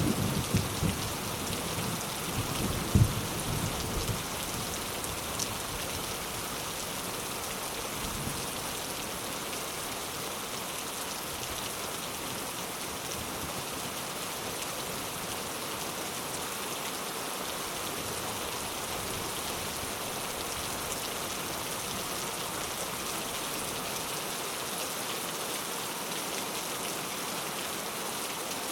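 Steady rain falling, an even hiss of drops on surfaces. A low thunder rumble dies away over the first few seconds, with one sharp loud crack about three seconds in.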